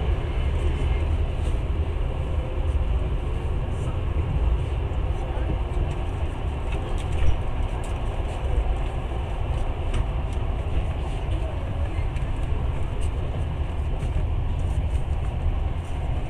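Passenger train running, heard from inside the carriage: a steady low rumble with faint scattered clicks.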